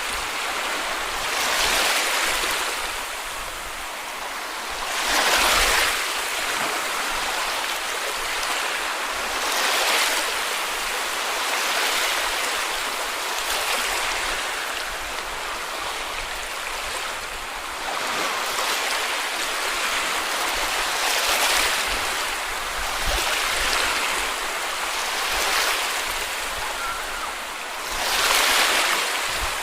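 Small sea waves breaking and washing up a beach. There is a steady hiss of surf, and it swells with each wave every two to four seconds; the biggest waves come about five seconds in and near the end.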